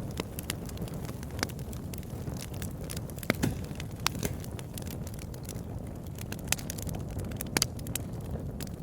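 Campfire burning: a steady low rumble of the flames with irregular sharp crackles and pops from the burning wood.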